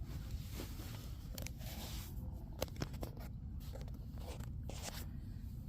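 Small metal parts being handled and fitted together by hand: scattered light clicks and scrapes over a low steady rumble.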